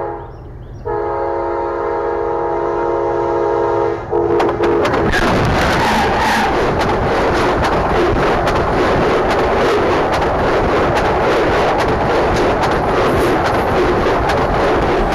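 A train's multi-tone horn sounds, breaks off briefly, then blows one long blast of about three seconds. The train then passes very close with a loud, steady rumble and rapid wheel clatter.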